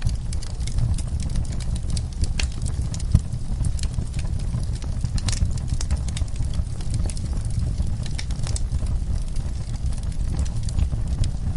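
Wood fire in a fireplace crackling, with irregular pops and snaps over a steady low rumble.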